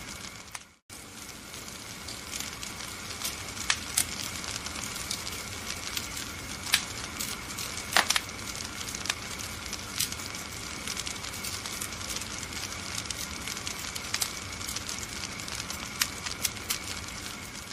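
Wood fire burning in a fireplace: a steady hiss with frequent sharp crackles and pops. The sound drops out completely for a split second about a second in.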